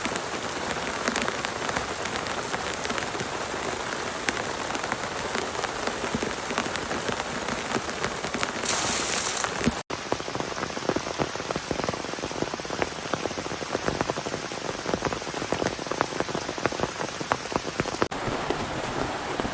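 Heavy rain falling steadily, with many separate sharp drop hits. The sound drops out for an instant about halfway through, and changes character again near the end, where one rain clip cuts to another.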